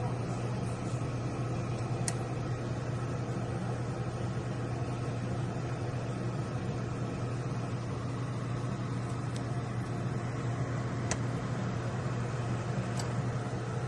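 Countertop air fryer toaster oven running, its fan giving a steady low hum with an even whoosh, and a few faint ticks.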